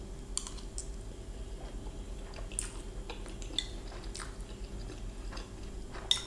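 Close-up chewing of a mouthful of fried rice, with scattered small clicks as a metal spoon scrapes and taps in a glass bowl, and one sharper clink about six seconds in.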